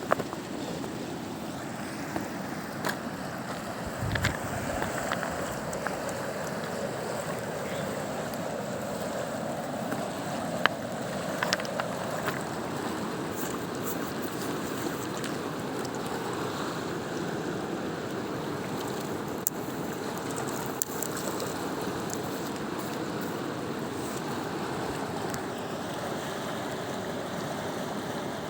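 Katun mountain river rushing steadily, with a few sharp clicks over the top.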